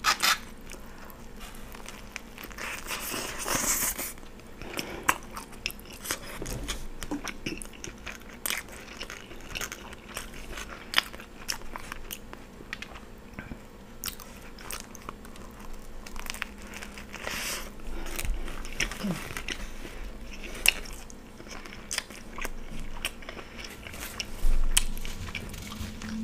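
Biting into and chewing a steak and cheese sub roll close to the microphone: wet mouth clicks and smacks with short crunchy bites throughout.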